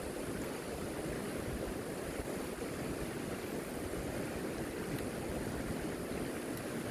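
River water rushing steadily, an even continuous wash with a faint low rumble.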